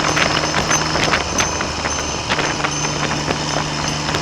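Triumph Trident's three-cylinder engine running at road speed, heard under heavy wind noise on the microphone. The engine note changes briefly a little over a second in, then holds steady again.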